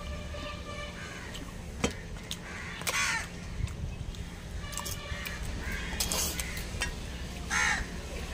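Crows cawing several times, harsh calls coming a second or two apart, with one sharp click about two seconds in.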